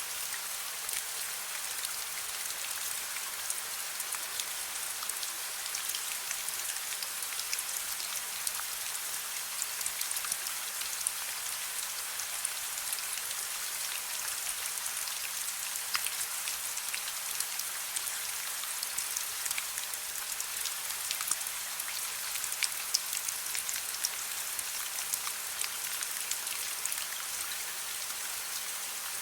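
Steady soft rain: an even hiss of rainfall with many small, sharp drop ticks scattered through it.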